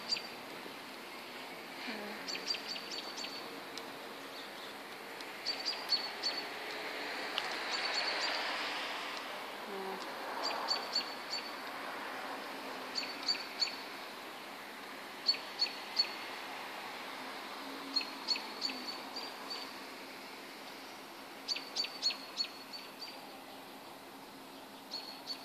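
A songbird singing short phrases of quick high chirps, repeated about every two to three seconds. Behind it is a steady background street hum that swells briefly about eight seconds in.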